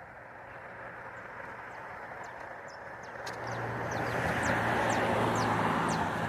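A motor vehicle approaching and passing, its engine noise and low hum growing louder about three seconds in and peaking near the end. Small birds give short high chirps over it.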